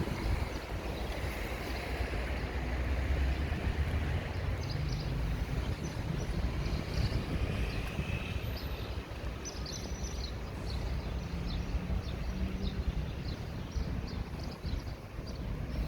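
Street traffic on a city avenue: a steady low rumble of passing vehicles that swells for a few seconds about two seconds in.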